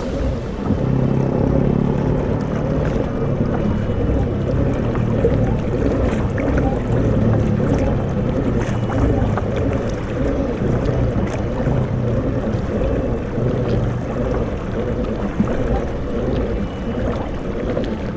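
Steady rumbling noise of a boat moving on open sea, with water and wind on the microphone.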